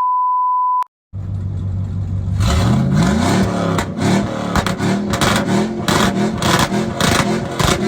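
A short censor beep ends under a second in. Then an engine idles, revs up about two and a half seconds in and is held at revs, wavering, with rapid irregular crackle.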